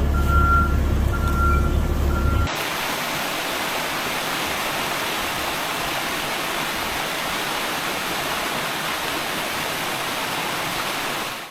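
A heavy vehicle's engine rumbling with its reversing alarm beeping. About two and a half seconds in, it cuts suddenly to the steady rush of floodwater.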